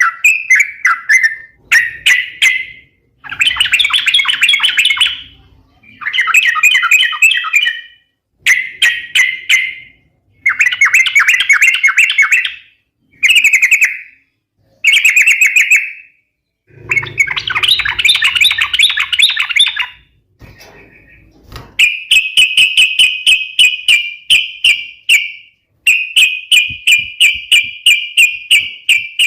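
Yellow-vented bulbul (trucukan) singing vigorously in short, bubbly chattering phrases a second or two long, with brief pauses between them. From about two-thirds of the way through, the song turns to quick, evenly repeated notes.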